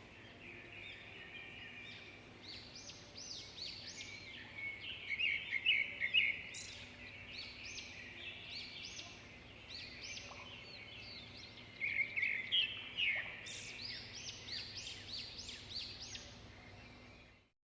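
Several small birds chirping and singing at once, with quick overlapping notes that sweep up and down. The sound stops abruptly near the end.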